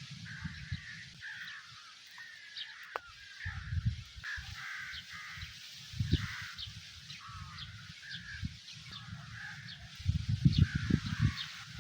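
Birds calling repeatedly, with cawing, crow-like calls and short high chirps. Bursts of low rumbling come in between, loudest near the end.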